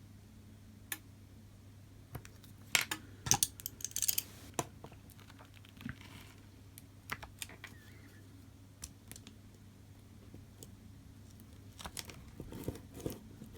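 Light, scattered clicks and taps of small hard parts being handled while the replacement glass is lined up on the phone display, some single and some in quick clusters, over a faint steady low hum.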